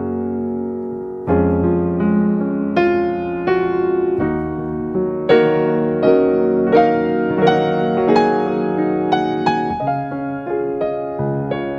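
Background music played on piano, gentle notes struck one after another in a slow, steady pattern.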